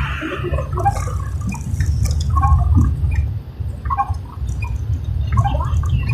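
Rain dripping and splashing in scattered drops over a steady low rumble.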